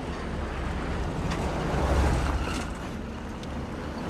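A vehicle driving: steady road and wind rumble, swelling briefly about halfway through.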